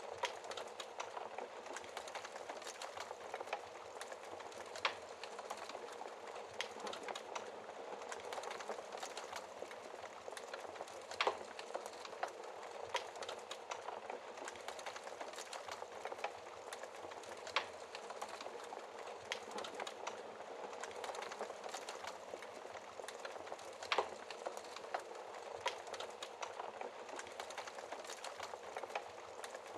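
Wood fire burning in a fireplace, crackling steadily with a soft hiss. Four louder, sharp pops of burning wood come about six seconds apart.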